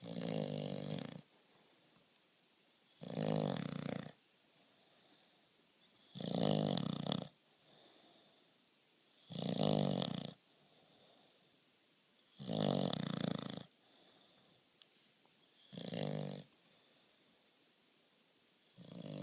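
Bulldog snoring loudly in its sleep: a snore about every three seconds, each lasting about a second, with faint breaths between.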